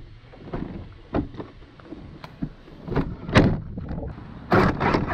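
Arrma Kraton 8S RC monster truck driving over rough dirt: irregular knocks and rumbles, with the loudest about three and a half seconds in and a longer one near the end.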